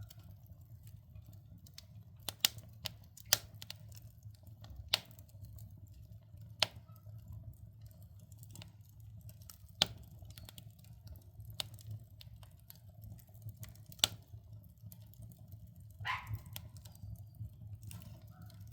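Logs burning in a wood stove, crackling with sharp pops every second or two over a steady low rumble, with a brief louder burst of crackle near the end.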